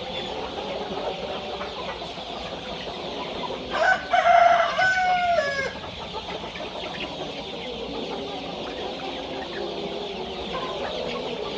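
A flock of chickens clucking continuously, with a rooster crowing loudly once about four seconds in, the crow lasting nearly two seconds.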